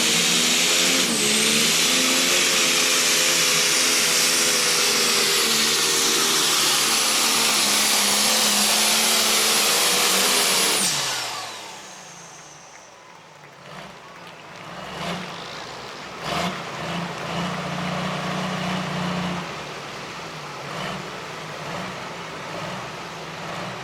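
Super stock pulling tractor's engine running flat out under the load of the weight-transfer sled, its pitch sagging slowly as the sled bears down, then shut down about eleven seconds in. After that a lower, much quieter engine runs, with a few knocks.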